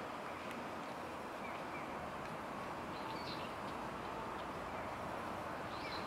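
Steady outdoor background hiss with a few faint, short bird chirps, a pair about a second and a half in and a small cluster about three seconds in.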